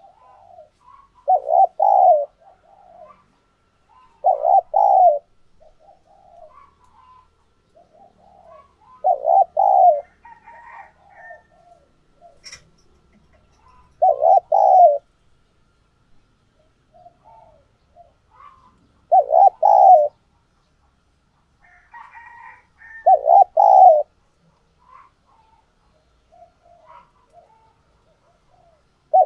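Spotted dove cooing: a loud phrase of two or three coos repeated every four to five seconds, six times, with fainter notes between the phrases.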